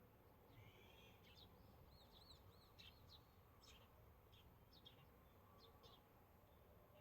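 Faint birdsong: a series of short high chirps and quick arched whistled notes from a small bird, over a low background hiss.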